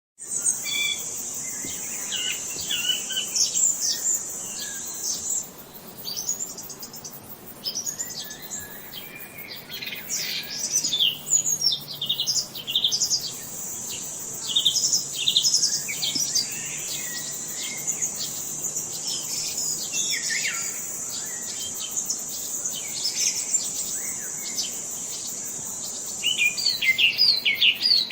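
Several songbirds chirping and whistling in quick, overlapping short calls. A steady high-pitched buzz runs underneath, stopping about five seconds in and returning later.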